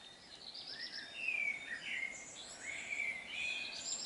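Dawn chorus: several songbirds singing at once, overlapping phrases of whistles, trills and quick chirps.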